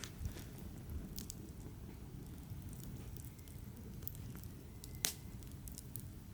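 Campfire crackling: a low steady rumble with scattered small pops, and one sharper, louder pop about five seconds in.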